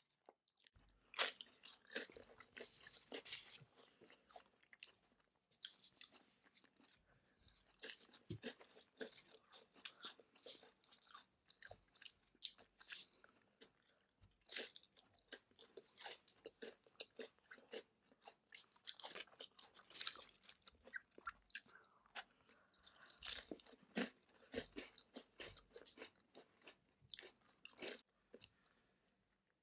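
Close-miked chewing and crunching of crisp snacks, potato chips and Twix bars, by two people eating: a dense run of crisp crunches and clicks, loudest just after the start and again about two-thirds of the way through, thinning out near the end.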